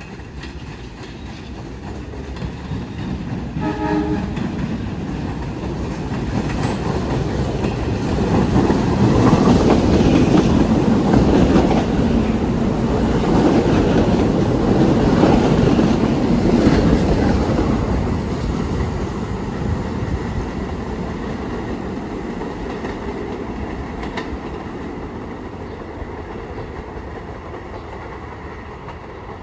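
Staten Island Railway subway train sounds a short horn blast about four seconds in as it approaches, then runs past at speed, its wheels clattering over the rail joints. The clatter is loudest in the middle and fades away as the train recedes.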